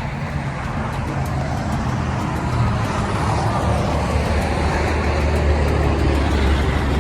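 A car engine running with a deep low rumble that grows louder over the second half.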